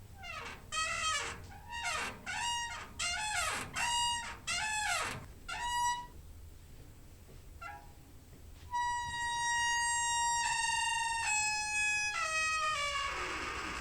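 Door hinge squeaking: a quick run of short squeaks that bend in pitch, a pause, then a long drawn-out creak that steps down in pitch in several stages and ends in a rougher falling screech.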